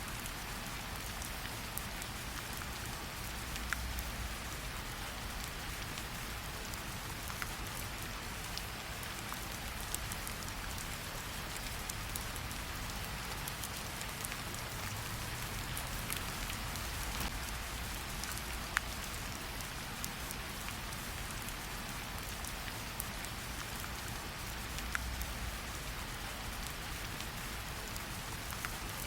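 Steady rain falling, with scattered sharp crackles from a campfire mixed in and a low rumble underneath.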